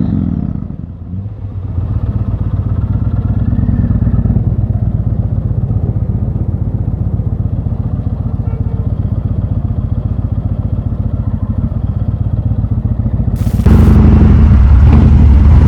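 Motorcycle engine running steadily. About two seconds before the end the sound jumps suddenly much louder.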